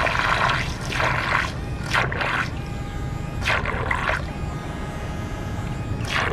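Flytec RC bait boat's twin brushed electric motors running, the propellers churning water, with a steady whine.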